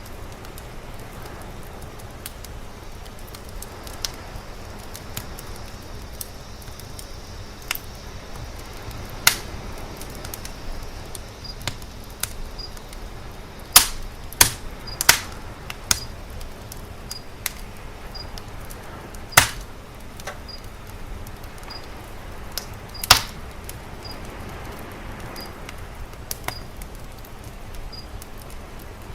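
Wood fire crackling, with sharp, irregular pops over a steady low rush.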